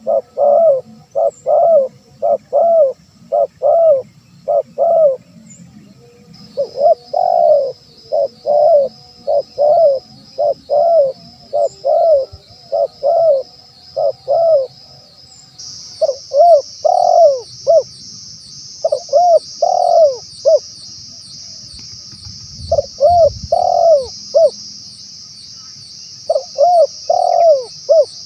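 Spotted dove cooing: groups of short coos repeated with brief pauses between them. A steady high buzz runs underneath from about six seconds in and grows louder about halfway through.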